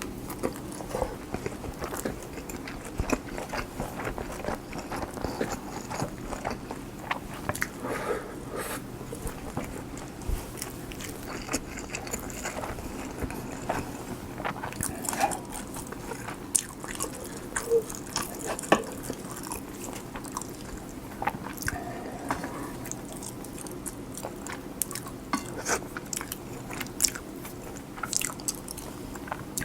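Close-miked chewing of cheese-and-egg kimchi fried rice: wet mouth sounds with many small sharp clicks and smacks scattered throughout.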